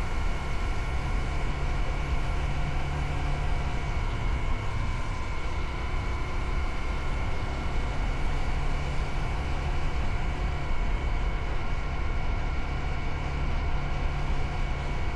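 Motorcycle running steadily on the move, a constant low rumble with a steady engine drone above it.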